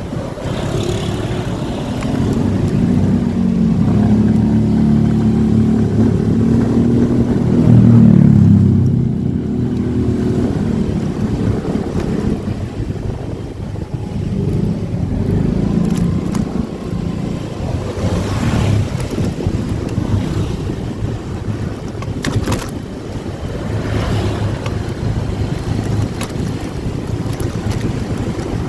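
Motorcycle engine running under way, its note swelling and getting loudest about eight seconds in, then easing back to a steady ride.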